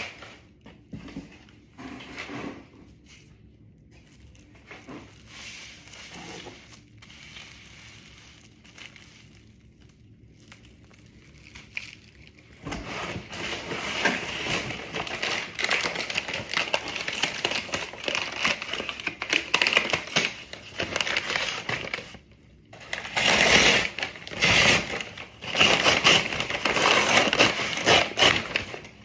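Packing material crinkling and crackling as a package is unwrapped by hand. The first dozen seconds hold only faint handling noise; from about halfway it becomes continuous crinkling, which stops briefly about three-quarters through and then comes back louder.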